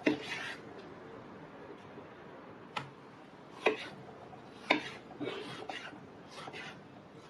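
Kitchen utensils knocking and scraping during food preparation: a sharp knock right at the start, three more sharp knocks about a second apart in the middle, and light scraping between them.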